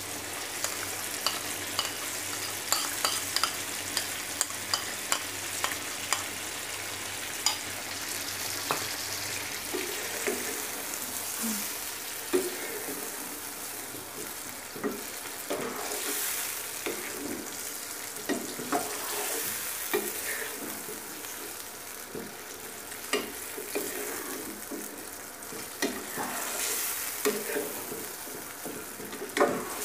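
Chicken frying with a steady sizzle in a yogurt-and-cream sauce in a nonstick karahi, freshly stirred-in cream included. A spatula stirs and scrapes it, knocking against the pan many times.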